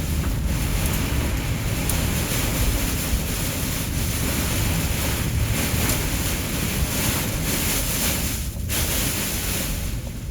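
Heavy rain and hail pelting a car in a severe storm, with strong wind: a loud, steady rush of noise that dips briefly about eight and a half seconds in.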